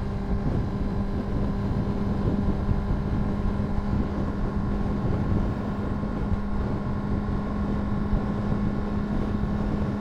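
Honda CBR600RR's inline-four engine running at a steady pitch as the motorcycle cruises, with wind noise on the microphone.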